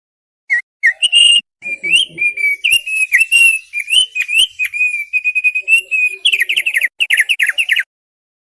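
Opior paruh tebal (thick-billed heleia) singing: a phrase of clear whistled notes, ending in a quick run of falling notes that stops sharply.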